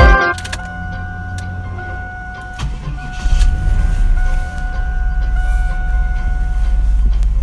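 A 1997 Pontiac Firebird Formula's V8 cranks and catches about two and a half seconds in. It flares up on starting, then settles into a steady, low idle rumble.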